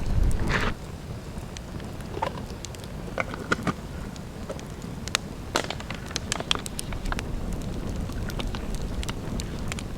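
Wood campfire crackling, with scattered sharp pops and snaps over a low rumble; the rumble is louder in the first second or so.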